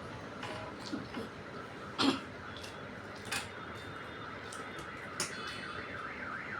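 Eating sounds: scattered mouth clicks and smacks while chewing rice and curry, with one louder smack about two seconds in. Near the end a warbling alarm tone begins in the background.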